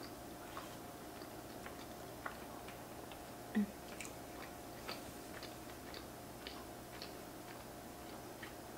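Close-up chewing of a mouthful of creamy carbonara pasta: faint, irregular wet mouth clicks and smacks, with a short low hum about three and a half seconds in.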